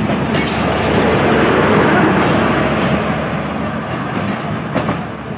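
Passenger train's coaches rolling past along a station platform as the train departs. The steady rolling noise swells to its loudest about two seconds in, then slowly fades.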